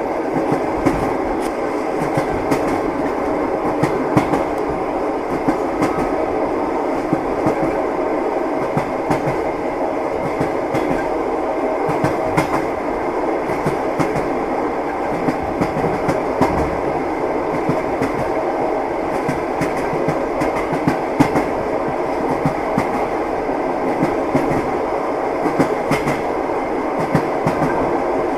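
Train wheels clattering on the rails: a steady rumble with frequent, irregular clicks and knocks.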